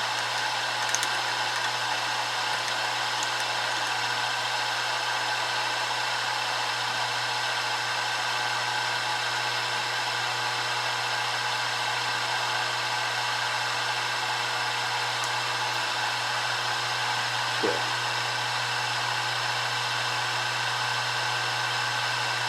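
Milling machine spindle running at a steady speed with a constant motor-and-gear hum and whine, as it turns an edge finder. A single brief chirp is heard near the end.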